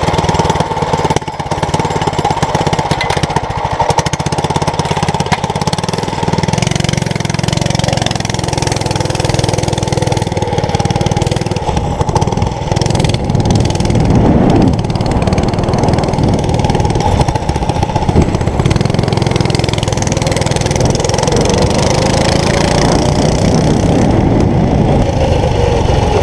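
Small mini bike engine running steadily, its speed wavering up and down slightly after about twenty seconds.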